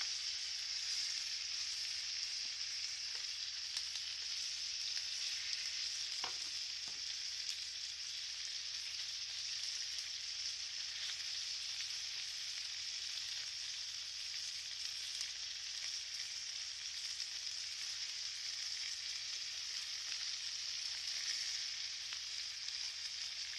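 Chicken pieces sizzling steadily in a hot grill pan, an even, high hiss of frying fat and sauce.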